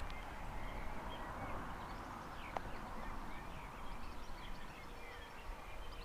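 Faint outdoor ambience: a steady hiss of flowing river water with faint bird chirps throughout, and one light click about two and a half seconds in.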